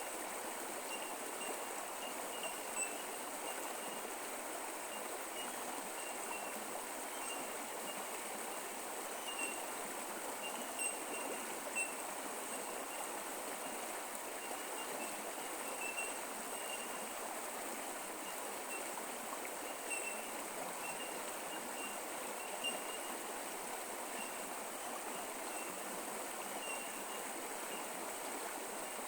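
Creek water running steadily over rocks, with a few small splashes. A continuous high-pitched pulsing trill at two pitches sits over the water.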